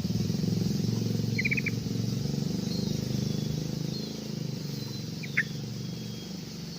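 Short bird chirps: a quick run of about four high notes about a second and a half in, and another brief chirp about five seconds in, over a low steady background drone.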